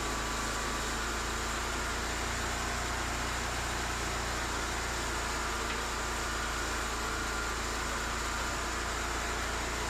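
Cooks 3238 full hydraulic sawmill running with a steady, even hum and no change in pitch or level.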